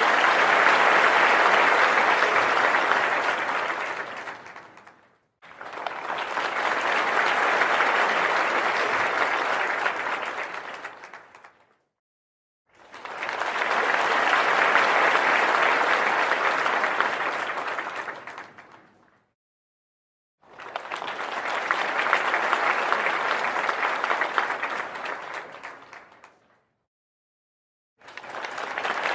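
Crowd applause in a run of separate clips. Each swells up, holds for a few seconds and fades out over about six seconds, with a short silent gap before the next one starts. About four full rounds are heard, and a fifth begins near the end.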